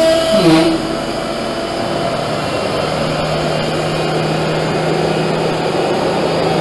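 Leifeld PLB 1200 spinning lathe running. A steady machine whine drops in pitch and stops about half a second in, giving way to a rushing mechanical noise with a steady low hum that settles in about three seconds in.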